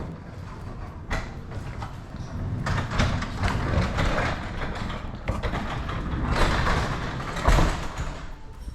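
Sectional garage door being pulled down by hand, rattling and rumbling along its tracks, with a heavy thud near the end.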